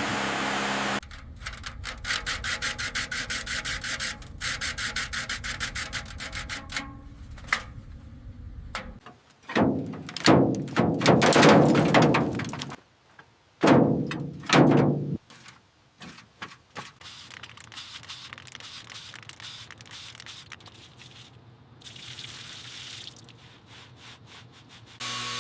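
Hand sanding: sandpaper rubbing in quick, even back-and-forth strokes for several seconds, then a few longer, louder strokes in the middle, then quieter scraping.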